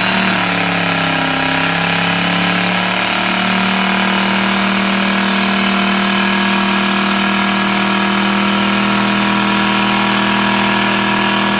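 An Oldsmobile's engine is revved hard and held at high revs during a brake-stand burnout, with its tyres spinning against the held brakes. The revs climb at the start, step up again about three seconds in, and then hold steady.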